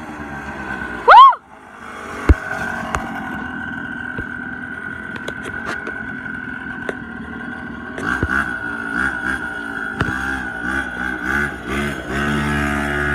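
Mini bike's small engine running, with a very loud brief rise and fall in pitch about a second in. The engine is revved up and down repeatedly over the last few seconds.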